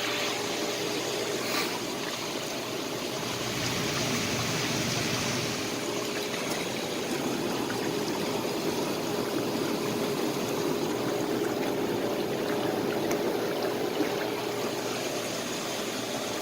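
Hot tub running with both jet pumps on: water churning and splashing steadily over a constant pump motor hum.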